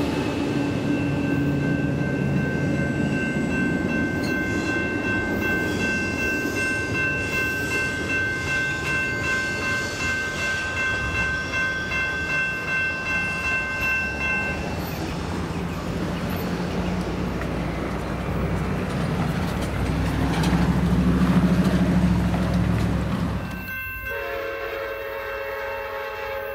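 Passenger train rumbling past a railroad grade crossing, with the crossing bell ringing steadily until it stops about halfway through. Near the end, after a sudden change of scene, a train horn sounds in the distance.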